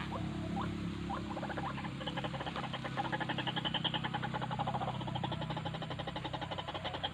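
White-breasted waterhen (ruak-ruak) calling: a few short rising notes, then from about a second in a long, fast run of harsh croaking pulses. A steady low hum runs underneath.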